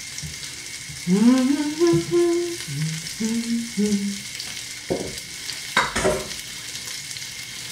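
Chickpea patties sizzling in a frying pan with a steady hiss. A woman hums a few held notes of a tune from about a second in, and a couple of sharp knocks follow around five and six seconds in.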